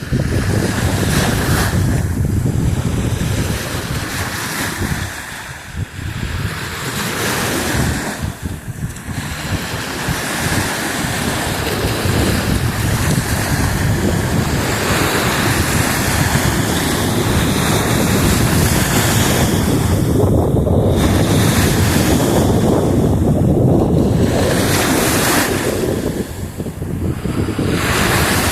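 Black Sea surf breaking and washing on a beach, with wind buffeting the microphone. It stays loud and steady, easing off briefly a few times between waves.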